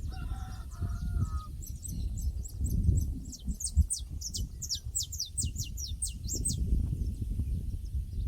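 Birds calling in a pasture ambience. A short, lower-pitched call comes in the first second, then a fast run of high, falling chirps from about two seconds in to past six seconds, over a steady low rumble.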